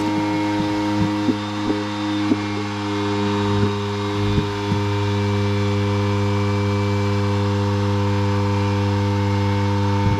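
A steady machine hum holding one pitch with strong overtones, with a few light clicks and knocks in the first half.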